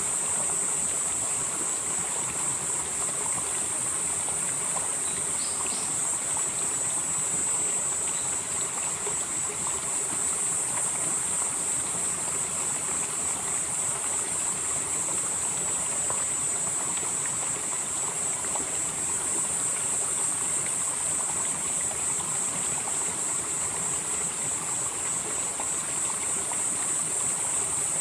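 Valley stream flowing steadily. A high, steady insect chorus sits above the water and swells in and out every several seconds.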